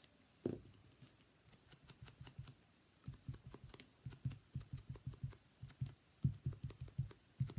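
Sponge dabbing liquid glue onto a die-cut paper piece, a fast run of soft taps about four to five a second, starting about three seconds in, with a few single clicks before that.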